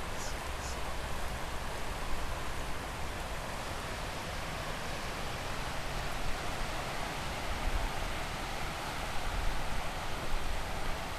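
Steady rushing noise of the flooded Calapooia River in full spate, with an uneven low rumble underneath.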